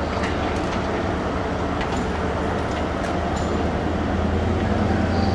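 A train running on the line: a steady low rumble that grows louder toward the end, with a few sharp clicks scattered through it.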